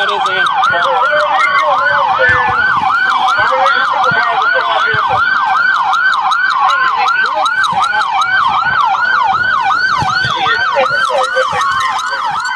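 Police car siren on yelp, a fast repeating up-and-down sweep about three to four times a second. Near the end a second, slower siren tone glides down underneath it.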